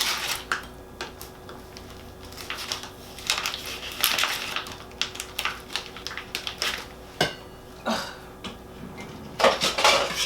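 Knife and fork clinking and scraping on a plate as food is cut, in irregular short clicks and scrapes.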